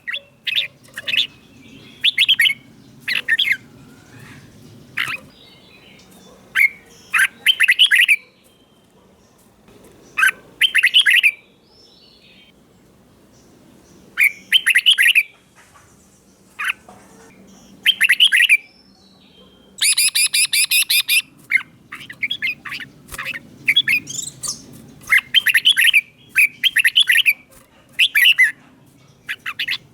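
Red-whiskered bulbul singing: short, bright, warbled phrases in bursts with pauses between, and a quick run of repeated notes about two-thirds of the way through.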